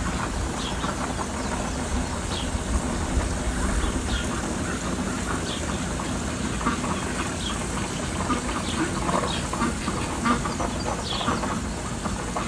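Birds singing: a short falling note repeats about once a second, with scattered chirps from other birds over a steady low rumble of background noise.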